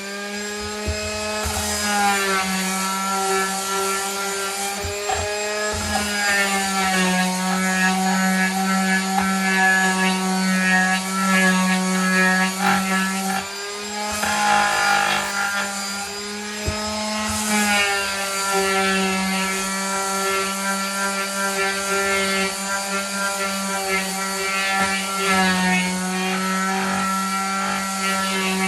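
Electric sheet sander with 150-grit paper running steadily against wood, a constant motor hum with a rubbing scratch under it. The hum wavers slightly in pitch as the sander is pressed and moved, and changes briefly about halfway through.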